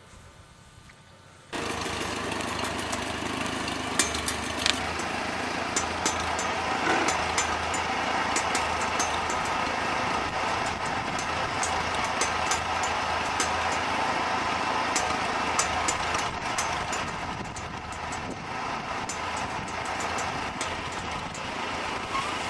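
A vehicle's engine running steadily, with many sharp clicks and rattles over it. It starts suddenly about a second and a half in and cuts off abruptly at the end.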